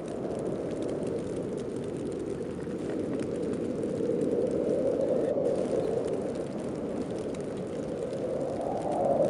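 Heavy snowstorm wind blowing steadily, swelling in gusts about halfway through and again near the end.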